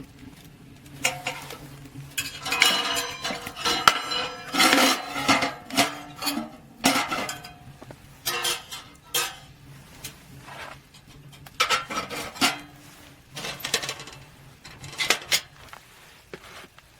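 Cookware and utensils clinking and clattering as they are handled, in irregular bunches of sharp knocks with short ringing tones. A faint, steady low hum runs underneath.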